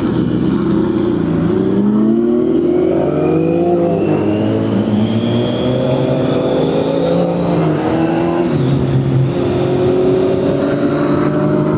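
Kawasaki ZX10R's inline-four engine pulling steadily under way, its pitch rising slowly for about eight seconds, then dropping and holding steady.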